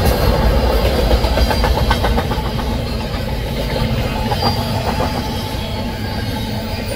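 Double-stack freight train passing behind GE diesel locomotives. A heavy low diesel rumble eases after about two seconds, and a steady clatter of wheels clicking over the rails runs through it.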